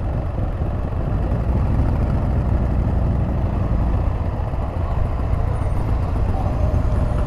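Can-Am Spyder RT three-wheeler under way: its three-cylinder engine running with steady road and wind rumble on the microphone.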